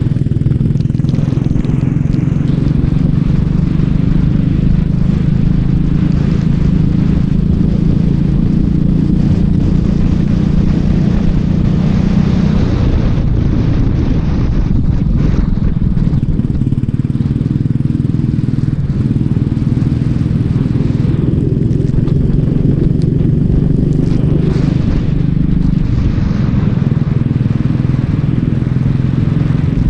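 Racing kart engine running hard, its pitch dropping and climbing again a few times as the kart slows for corners and accelerates out of them, with rushing noise over the top.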